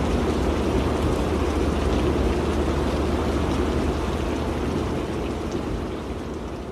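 Rain on a car with the steady low rumble of the car driving, fading out over the last few seconds.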